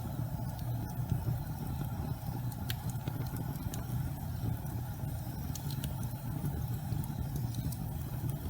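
Gas fireplace burning: a steady low rumble of flame with scattered faint crackles.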